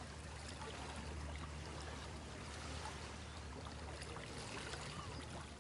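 Canal water lapping and splashing under a steady low hum of a boat engine, with faint small chirps or distant voices above.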